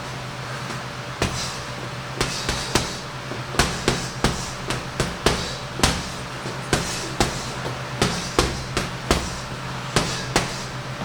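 Punches landing on a heavy punching bag: one hit about a second in, then from about two seconds a steady run of sharp thuds, two or three a second, in uneven combinations.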